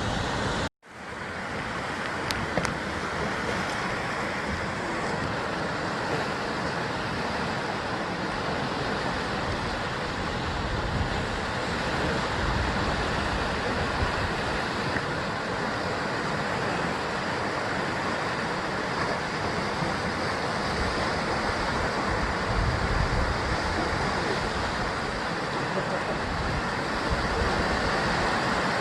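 Sea waves washing against the basalt column cliffs of the Jusangjeolli coast, a steady surf. The sound drops out for an instant just under a second in, then fades back up.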